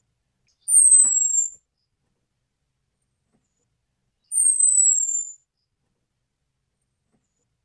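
Orange-headed thrush giving a thin, very high whistled call twice, each about a second long and falling slightly in pitch, with silence between.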